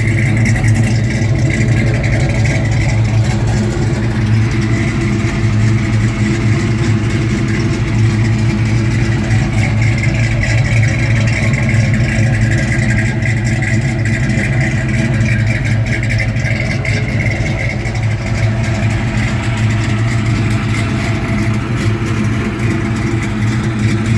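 Ford 302 V8 engine in a 1960 Ford Falcon idling steadily, with an even, unchanging pitch.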